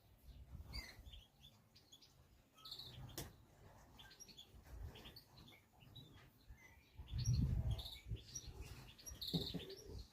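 Small wild birds chirping in short, high calls scattered throughout. A low rumble, the loudest sound, comes about seven seconds in.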